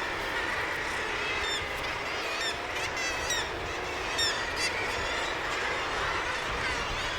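Breeding seabird colony on sea cliffs calling: a steady din of many birds, with a run of sharp, high calls through the middle.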